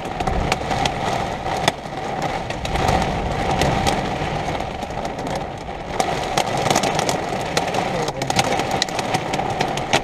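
Heavy thunderstorm rain: a steady rush with many irregular sharp ticks of drops striking close by.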